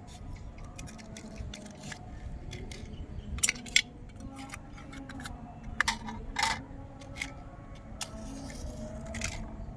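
Scattered sharp clicks and light taps, about half a dozen spread irregularly, from handling the small burner while it is being lit, over a faint low background hum.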